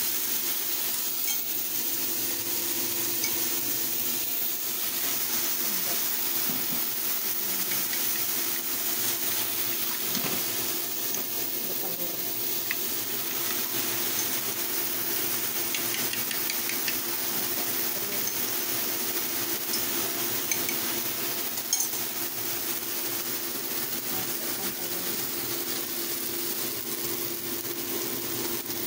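Enoki mushrooms sizzling steadily in hot oil in a pan, with a few light clicks of a utensil against it.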